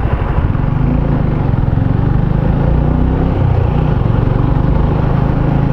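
Motorcycle engine running steadily while riding, with road and wind noise; the engine note dips slightly about halfway through.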